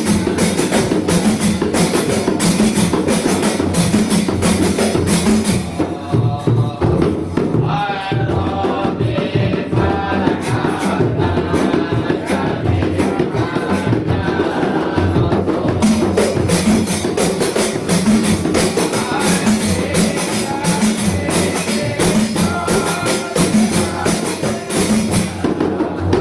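Javanese terbang frame drums played in a dense, fast interlocking rhythm. About six seconds in, the drumming thins and voices sing a devotional chant over it, and the full drumming returns about ten seconds later.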